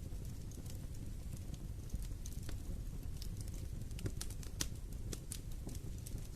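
Wood fire in a fireplace crackling, with scattered small pops and ticks over a low rumble of the flames, and one loud sharp pop right at the end.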